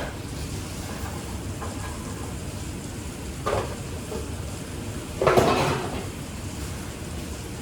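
Two clatters of kitchenware over a steady low hum: a short one about three and a half seconds in, then a louder, longer one about two seconds later.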